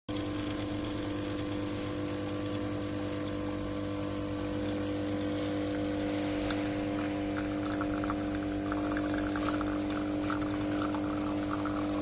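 Capsule coffee machine's pump running with a steady hum, a crackling gurgle of water joining in about halfway through.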